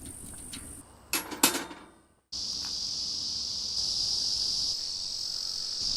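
Two sharp knocks about a second in. After a short drop-out, a steady high-pitched chorus of insects starts and holds.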